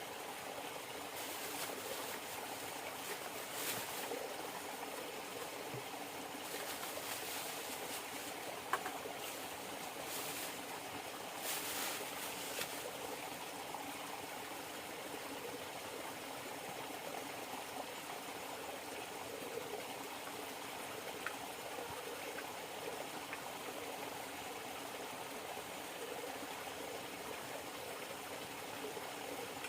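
River water running steadily with a trickling sound. A few short hissy swishes and one sharp click come in the first half.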